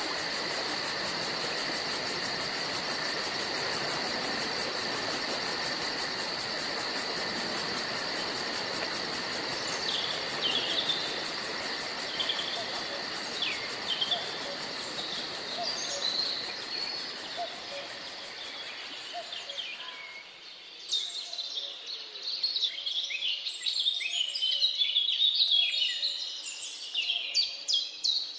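Forest ambience: insects drone steadily with a fast high pulsing over a steady hiss. About twenty seconds in this gives way to several birds chirping and singing, with one call repeated rapidly near the end.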